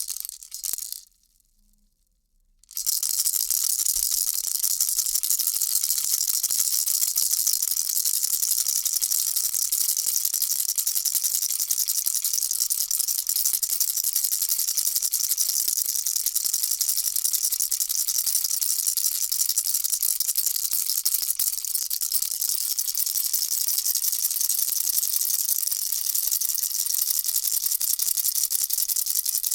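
Baby rattle being shaken steadily, a dense, bright, high rattling of small beads. It stops briefly about a second in and starts again about three seconds in, then keeps on evenly.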